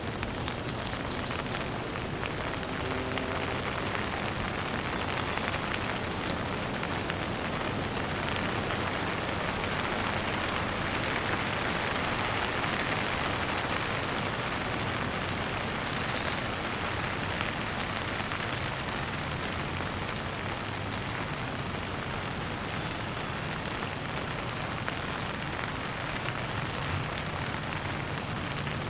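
Steady rain falling in an even hiss, with a brief high bird trill about halfway through.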